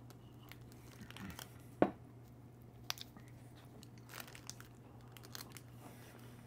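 Faint close-up eating sounds: chewing and mouth clicks on soft Krimpet snack cakes, with scattered crinkles of a plastic wrapper. There is one sharper click about two seconds in, over a low steady hum.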